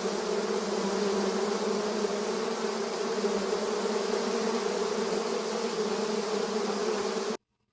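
Steady, dense buzzing of a large honey bee colony disturbed during a hive cutout; it cuts off abruptly near the end.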